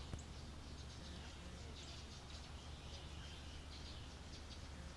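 Quiet outdoor background: a low steady hum with faint bird chirps scattered through it.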